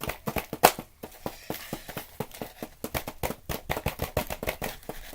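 Digging tools chipping and scraping at chalky plaster dig blocks: a quick, irregular run of sharp taps and scratches, with two louder knocks in the first second.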